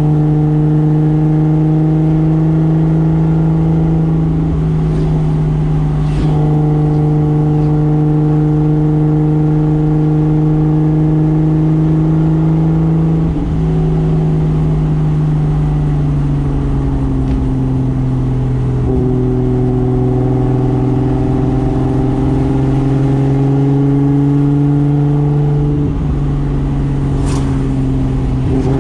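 Toyota Soarer's single-turbo 2JZ straight-six running at steady revs under way, its note holding pitch for several seconds at a time, dipping briefly and settling a little lower a few times. A single sharp click near the end.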